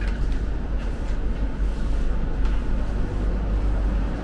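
Steady low rumble and hum of a Renfe commuter train standing at the platform with its doors open, with a few faint knocks and shuffles from passengers stepping off.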